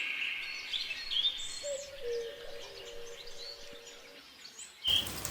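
Birds chirping in short scattered calls over quiet outdoor ambience, with a thin held whistle-like note in the middle; the sound changes abruptly to a louder, noisier background near the end.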